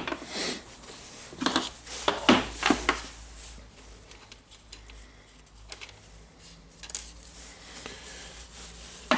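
Small metal parts clinking and being handled on a workbench during rotary hammer reassembly: a few sharp clinks in the first three seconds, then faint scattered ticks.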